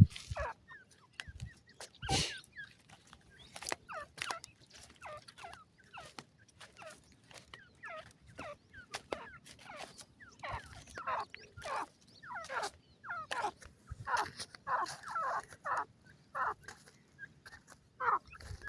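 Francolin (teetar) chicks cheeping: many short, downward-sliding chirps in quick succession, growing busier in the second half. A single knock comes about two seconds in.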